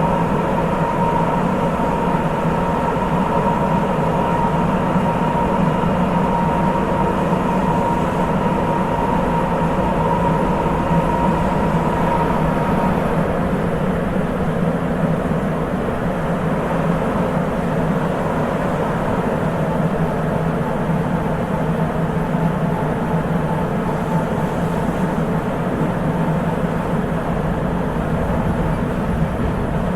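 Sapporo Municipal Subway 8000 series train running between stations, heard inside the car: the steady rumble of its rubber-tyred running gear with the whine of its Hitachi IGBT VVVF inverter drive. A steady tone in the whine fades out about halfway through.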